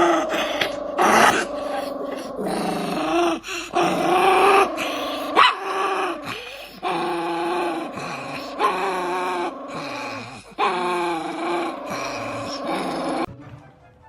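A dog vocalizing in a string of about ten drawn-out, pitched whining and growling calls, each bending in pitch and lasting about a second, that stop abruptly near the end.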